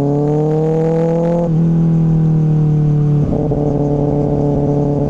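2024 Kawasaki ZX-6R's inline-four engine through an M4 slip-on exhaust, revs climbing under acceleration, then an upshift about a second and a half in. After the shift the note sinks slowly, turning rougher about three seconds in.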